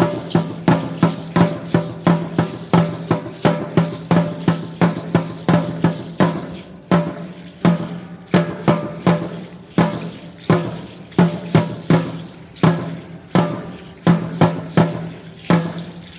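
Steady, fast drumbeat for an Aztec-Chichimeca dance, about three to four ringing strikes a second.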